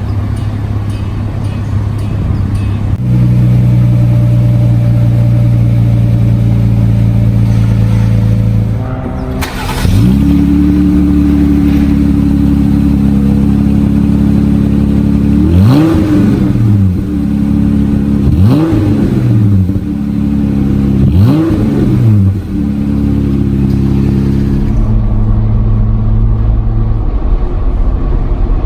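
Jeep Wrangler JL engine idling through an aFe Power MACH Force-Xp 2.5-inch exhaust. Past the middle the throttle is blipped three times, about three seconds apart, each rev rising and falling back to idle.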